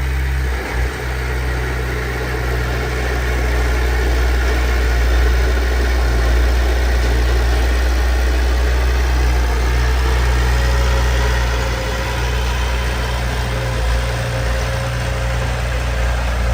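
Heavy diesel engine of earthmoving machinery, a bulldozer or dump truck, running steadily with a deep, even sound.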